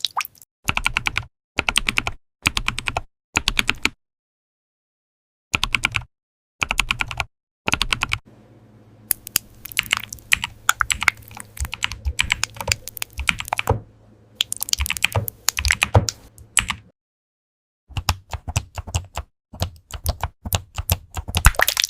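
Computer keyboard being typed on in quick bursts of key clicks, broken by short spells of dead silence. A steady low hum sits under the typing through the middle stretch.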